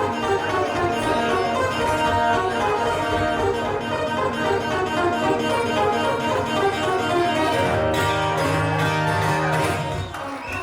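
Instrumental string music: plucked guitar with a bowed string such as a fiddle, and a held low chord about eight seconds in.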